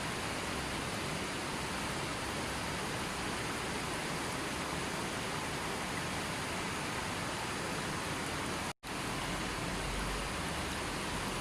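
River water flowing, a steady, even rush with no breaks except one split-second dropout to silence about nine seconds in.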